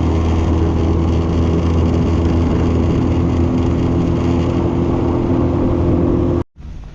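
A small fishing boat's gasoline outboard motor running steadily at speed, with the rush of wind and water over it. The motor runs low on fuel. The sound cuts off abruptly near the end.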